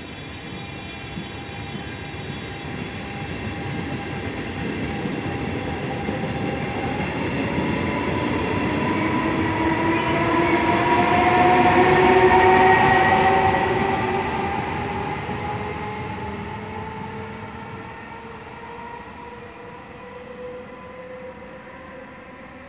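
Trenitalia E464 electric locomotive and its coaches rolling past while accelerating away from the station. The locomotive's whine rises slowly in pitch over the rumble of the wheels. It is loudest as the locomotive passes, about halfway through, then fades as the train draws away.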